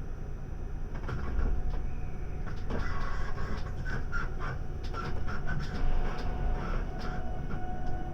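Interior of a JR West 681 series limited express car standing at a station: a steady low hum under scattered clicks and knocks and brief mid-pitched tones, with a faint steady tone coming in near the end.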